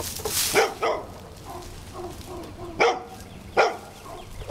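A dog barking: four short, sharp barks at uneven intervals.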